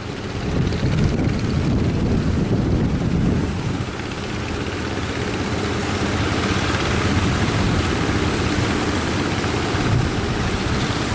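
Fishing boat engine running steadily under a heavy rumble of strong wind on the microphone, with surf hissing that grows louder about halfway through.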